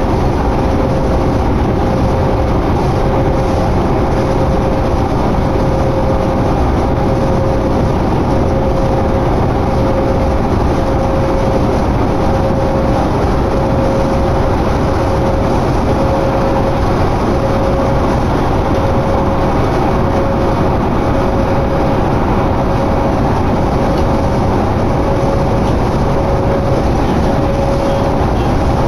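Inside a 2011 New Flyer D60LFR articulated diesel bus on the move: steady engine and road noise with a constant whine running through it.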